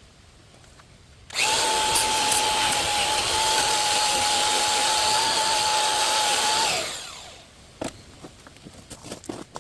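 Aerosol can of brake cleaner spraying in one continuous burst of about five seconds: a steady hiss with a thin whistling tone, tailing off at the end.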